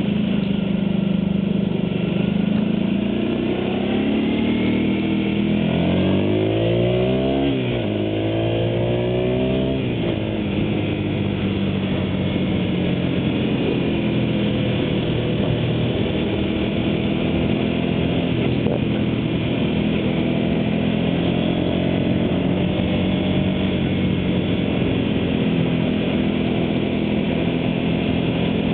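Honda VT250's V-twin engine pulling hard, its pitch climbing through a few gear changes several seconds in, then running steadily at cruising speed.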